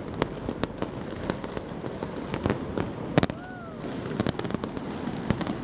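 Fireworks going off in quick succession: many sharp bangs over a continuous rumble of distant bursts, the loudest bang about three seconds in.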